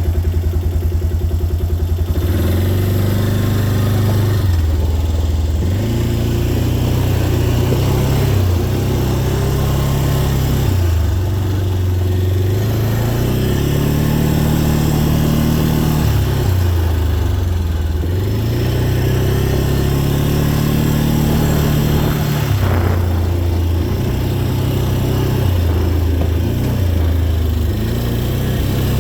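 Dirt bike engine under way on a rutted trail, revving up and shifting over and over, its pitch climbing in steps and dropping back every few seconds.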